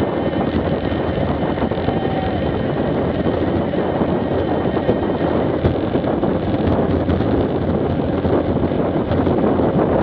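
Steady wind rushing over an action camera's microphone on a moving street bike, with the bike's running and road noise underneath.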